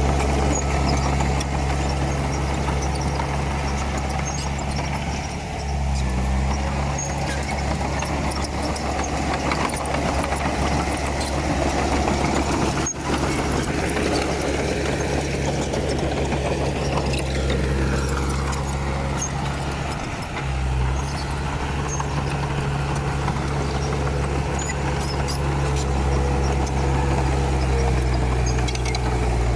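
Komatsu D31P bulldozer's diesel engine running steadily, its note dipping briefly twice.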